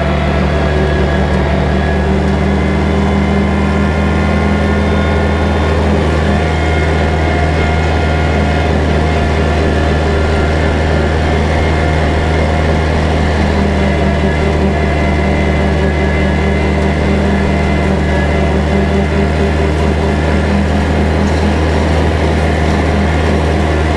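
Kubota tractor's diesel engine running at a steady, even speed while bush hogging.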